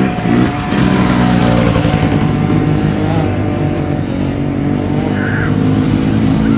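Small youth dirt bike engines running hard, several engine notes overlapping and wavering in pitch as the throttles open and close.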